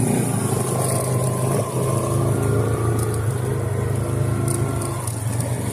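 Suzuki Eiger 400 ATV's single-cylinder engine running steadily under way.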